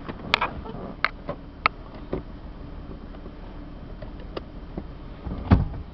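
Seatbelt being pulled out and buckled inside a car cabin: a few sharp clicks of the belt and buckle over a low steady background, then a dull thump near the end.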